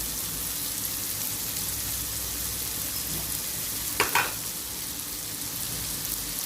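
Chopped carrot and tomato sizzling steadily in hot oil in a pan, the tomato cooking down. About four seconds in, a spatula briefly stirs and scrapes in the pan.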